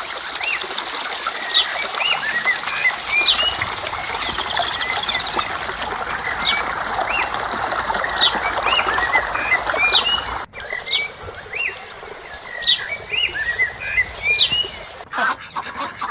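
Small birds chirping, many short sharp calls over a steady hiss; the sound cuts off abruptly about ten seconds in and the chirping starts again.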